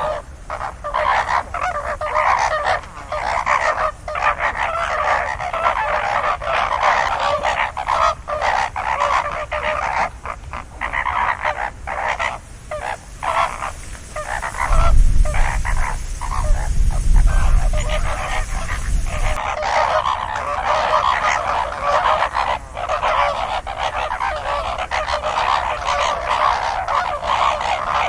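A flock of geese honking, many calls overlapping in a continuous din. A low rumble joins in for a few seconds around the middle.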